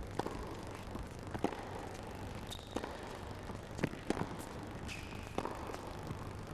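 Tennis rally: racket strikes on the ball, a sharp hit every second or so over a low steady arena hum, with two brief high squeaks in between.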